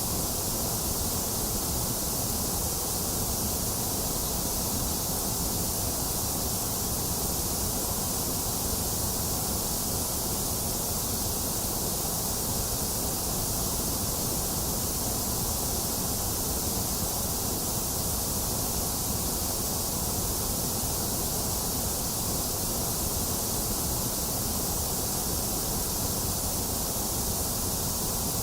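Steady generated white noise for sleep, an even hiss with a deep rumble beneath it that never changes in level.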